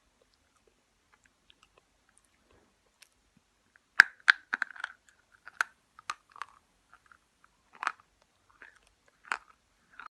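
Slate chips crunching between the teeth as a person bites and chews them. Quiet for about four seconds, then a quick run of sharp crunches, followed by single crunches a second or two apart.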